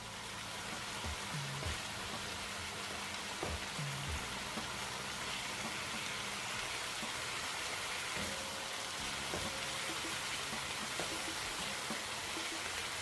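Diced chicken sizzling in olive oil in a pot, a steady frying hiss, with a few light knocks of a utensil against the pot.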